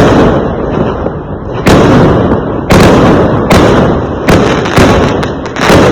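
Fireworks exploding: about seven sharp, loud bangs at irregular intervals, with a continuous low rumble and crackle between them.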